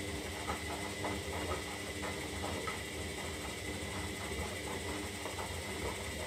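Zanussi Lindo 300 washing machine running its synthetic wash cycle, the drum motor turning with a steady hum and whine and irregular swishes of water and laundry tumbling in the drum.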